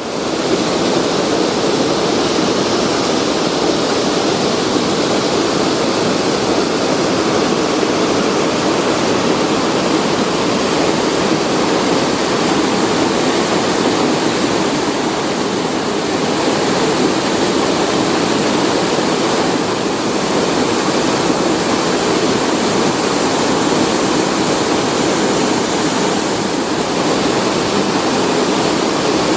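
Waterfall rushing: steady, loud white water with no letup.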